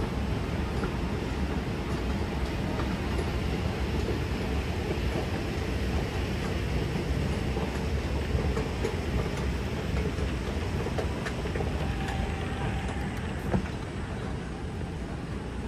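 MRT train running, a steady rumble of wheels and motors. A single sharp click comes about thirteen seconds in.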